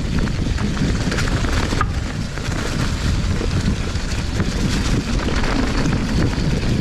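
Wind rushing over a GoPro's microphone while a mountain bike rolls fast over a dirt trail, with tyre noise and scattered clicks and rattles from the bike.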